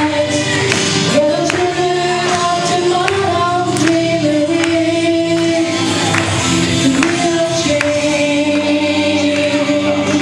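A song sung over a backing track with a steady beat, the voices holding long notes.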